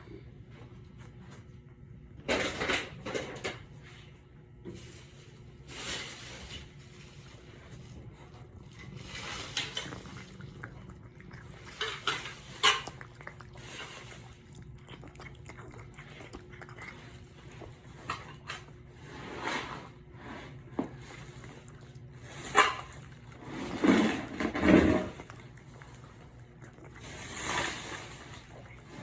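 Cats eating and lapping from food dishes: irregular wet licking and chewing with occasional clinks of a bowl, over a steady low hum.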